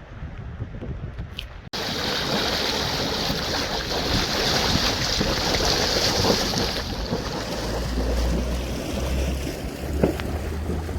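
Fast-flowing floodwater of the swollen River Towy, a steady rushing hiss that jumps in level about two seconds in. Low gusts of wind buffet the microphone in the second half.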